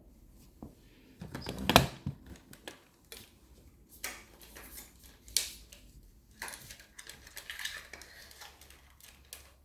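Scattered clicks and knocks of small hard objects being handled, with one louder knock about two seconds in.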